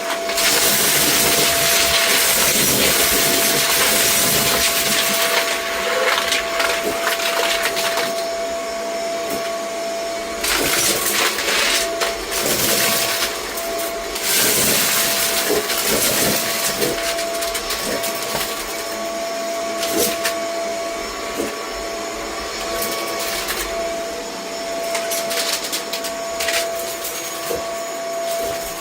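Vacuum cleaner running steadily with a constant motor whine, its airflow noise swelling louder several times. Debris being sucked up makes scattered clicks and crackles.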